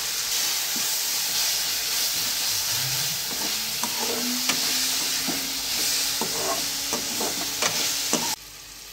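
Onion, tomato and ginger-garlic paste sizzling in hot oil in a metal kadai, being sautéed until the paste loses its raw smell. A perforated metal spoon stirs and scrapes against the pan, with clicks from about three seconds in. The sizzle cuts off abruptly near the end.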